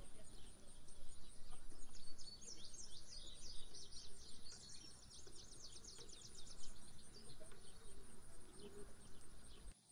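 Small birds chirping outdoors, with a quick run of rapid chirps in the middle, over a steady high-pitched buzz.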